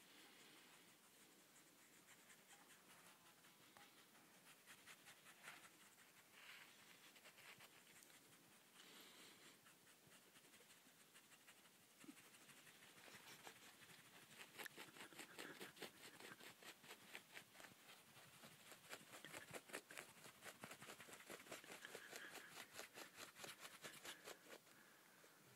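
Faint scratching from a sleeping Labrador's leg, set off by being poked, which the owner takes for hitting a nerve. A few scattered rustles come first, then from about halfway a long run of rapid, rhythmic scratch strokes.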